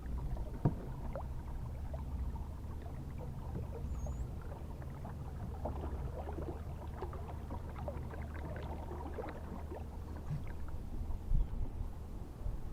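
Small, irregular splashes and water lapping around a kayak, over a steady low rumble.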